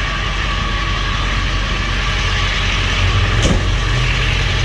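Ford F350's 7.3-litre Powerstroke turbo-diesel V8 idling steadily, with a steady hiss over it and one short click about three and a half seconds in.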